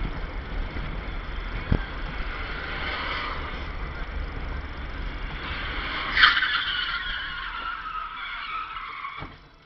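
Car tyres screeching over the low rumble of a moving car, the screech loudest about six seconds in and then sliding down in pitch before it fades.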